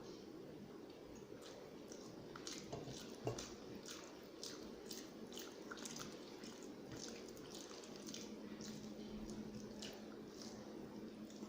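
Close-up eating sounds of rice and curry: chewing with many short, irregular wet clicks and smacks of the mouth.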